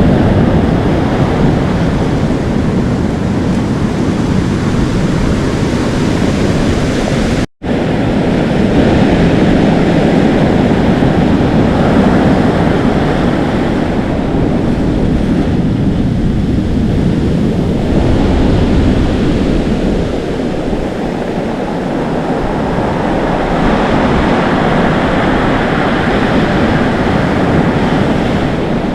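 Atlantic Ocean surf washing in and foaming, a continuous rush that swells and eases, with wind blowing across the microphone. The sound drops out for a split second about seven seconds in.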